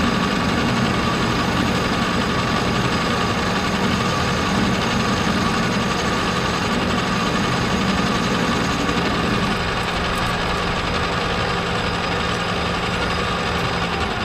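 Metal lathe running under power while a boring bar takes a light cut inside a bushing: a steady motor and spindle hum with a constant high tone over it.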